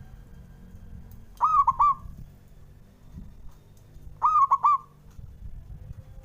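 Zebra dove (perkutut) cooing: two short phrases about three seconds apart. Each is a ringing note followed by two quick notes.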